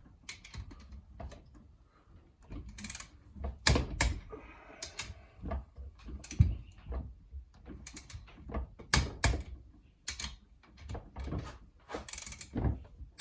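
A torque wrench ratcheting in several short runs of clicks as the 12-point cylinder head nuts of a Honda TRX450R engine are tightened to 30 foot-pounds.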